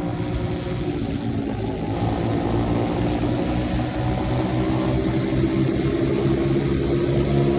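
125cc dirt bike engine running steadily, growing louder and clearer from about five seconds in.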